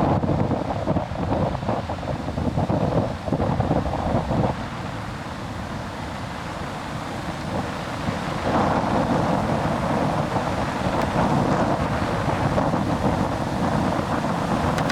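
Strong wind buffeting the microphone in gusts, with the wash of low-tide surf beneath. The wind eases about a third of the way in and picks up again a little past the middle.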